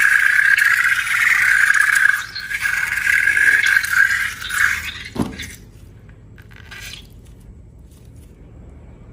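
A rubber balloon squealing loudly for about five seconds, then a short sound that falls quickly in pitch.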